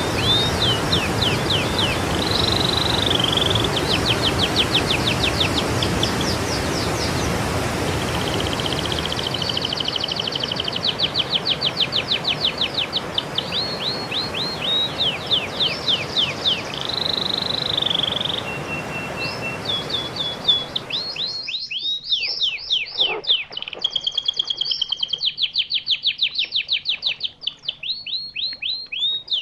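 A songbird singing long fast runs of repeated sweeping notes and trills, with a few held whistles. A steady hiss lies under the song until about two-thirds of the way through, where it cuts off suddenly and the song goes on clean.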